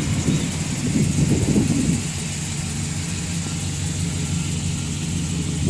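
A vehicle engine idling steadily, with rough low gusts in the first two seconds.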